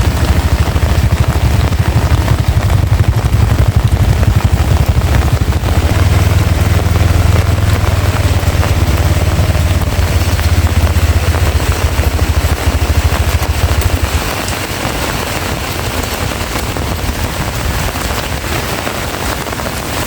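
Heavy rain pouring down, a dense steady hiss, over a strong low wind rumble that drops away about fourteen seconds in.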